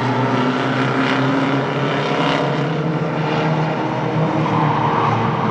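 Engines of several race trucks running hard together on the track, a steady, loud mix of overlapping engine tones.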